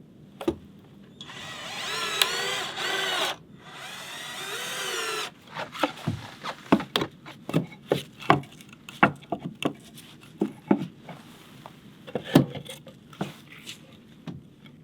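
Power drill running in two bursts of about two seconds each, its pitch wavering under load, then a string of irregular sharp knocks and taps on wood.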